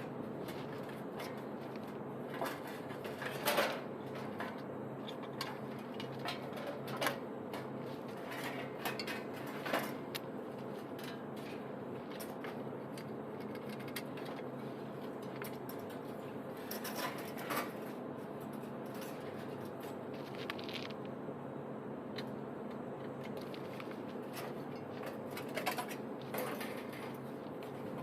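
Steady hum of a running machine, with scattered light clicks and knocks of tools and parts being handled.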